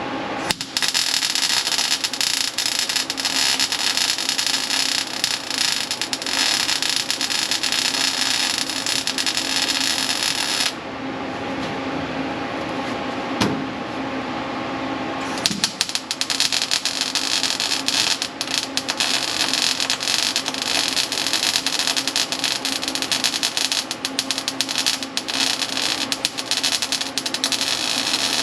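Welding arc crackling steadily on sheet metal in two long runs, with a pause of about five seconds partway through and a single click in the pause.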